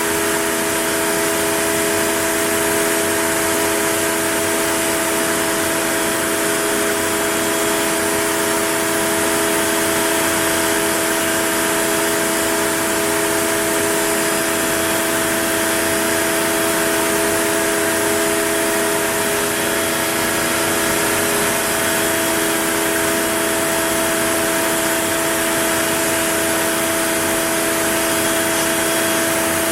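OneFinity CNC router running steadily: a constant whine of several steady tones over a hiss.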